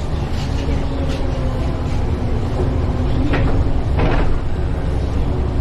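Inside a moving city bus: steady engine and road rumble with a low hum, and two short knocks or rattles about three and a half and four seconds in.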